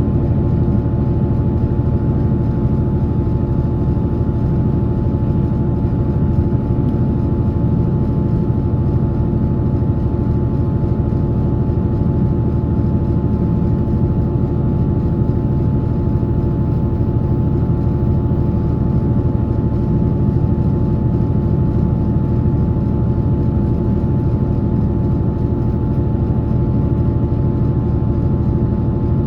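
Taiwan Railway train 191 running at a steady speed: a steady low rumble with several even humming tones over it, unchanged throughout.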